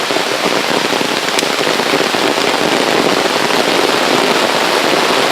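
Steady rain falling on an umbrella held just above the microphone, a dense, even hiss of drops with one faint tick about a second and a half in.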